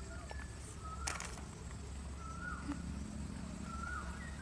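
Faint bird calls: short chirps repeated about every second and a half, some falling in pitch. A single sharp knock comes about a second in.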